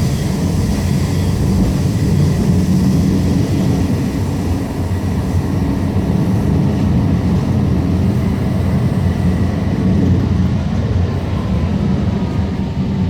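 Alstom Citadis Spirit light-rail car in motion, heard from inside: a steady low rumble of the running gear on the rails. From about ten seconds in, a faint whine falls in pitch as the train slows for the next station.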